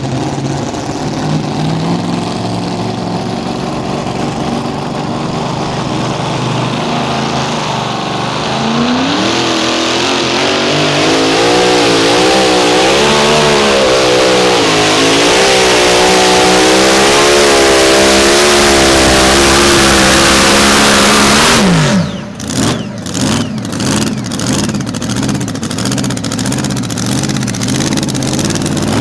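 Mini Rod pulling tractor's engine running at the line, then about eight seconds in it opens up to full throttle and pulls hard, its pitch wavering up and down for about twelve seconds. Near the end the pitch drops sharply as it comes off the throttle, and the engine then runs in choppy, uneven bursts.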